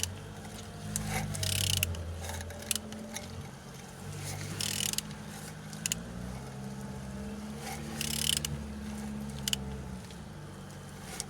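Nissan QG15DE 1.5-litre four-cylinder engine being turned over by hand with a wrench: ratchet clicks and metal-on-metal mechanical sounds, with a short hissing burst about every three seconds over a low steady hum. The engine turns freely with compression on all cylinders.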